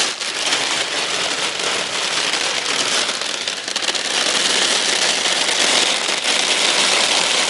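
Heavy thunderstorm downpour pelting a car, a dense, steady patter of countless drops.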